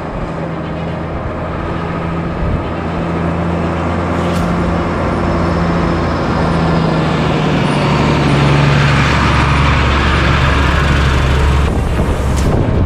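Unimog U1700L truck's diesel engine driving off-road, a loud steady drone whose pitch climbs a little and drops back. Two sharp knocks come from the truck, one about four seconds in and one near the end.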